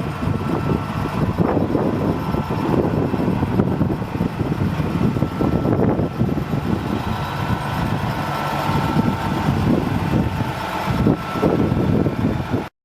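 Peterbilt 379 dump truck's diesel engine running with a steady low rumble, cutting off abruptly near the end.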